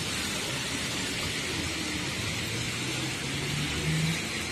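Steady hiss of heavy rain on a waterlogged road, with a passing vehicle's engine hum that rises in pitch in the second half.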